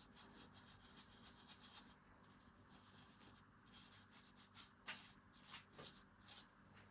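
Faint scratchy strokes of a hand tool working the surface of a beech-wood cup: a quick run of light strokes, then a few louder separate scrapes in the second half.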